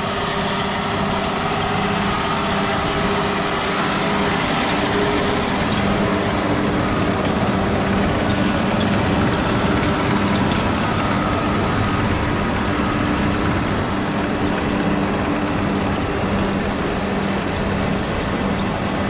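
John Deere 6155R tractor's six-cylinder diesel engine running steadily under load, pulling a Vermeer 404 Pro round baler as it picks up and bales a hay windrow. The machinery makes an even hum with a steady pitch.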